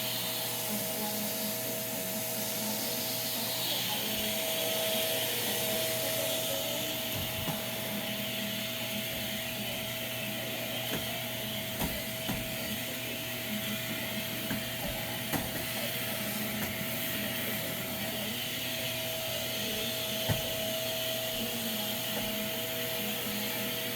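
Shark vacuum cleaner running steadily, a constant whine over its rushing air, with a few light clicks and knocks here and there.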